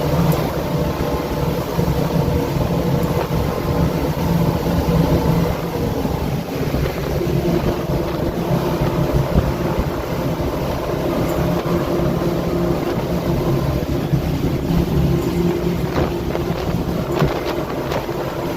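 A boat's newly fitted engine running steadily under way on a sea trial, a constant low drone.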